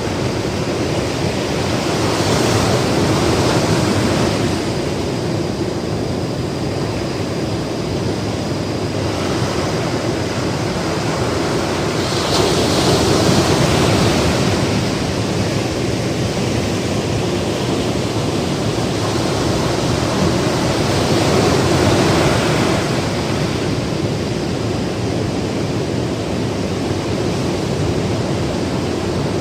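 Ocean surf on a beach: a steady wash of waves that swells louder every several seconds as breakers roll in.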